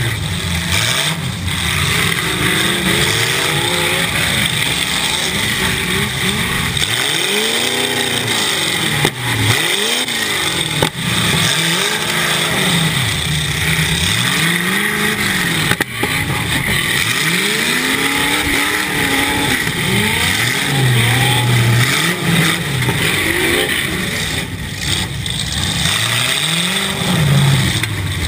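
Demolition derby car's engine revving up and falling back over and over, heard from inside the cabin. A few sharp knocks come through, around nine, eleven and sixteen seconds in.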